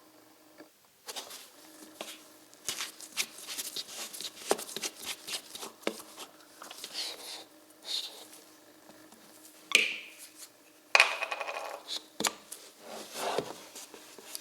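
Small metal parts being handled: a run of clicks, scrapes and clinks, with two louder ringing metal knocks about ten and eleven seconds in.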